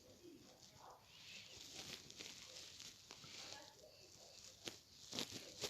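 Near silence: faint rustling with a few soft clicks near the end.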